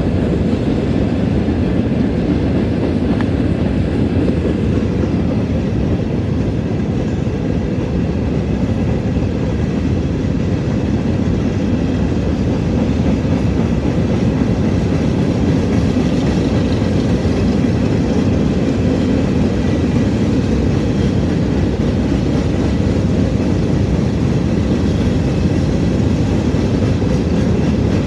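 Loaded freight cars, mainly coal hoppers, rolling past close by: a steady rumble of steel wheels on the rails.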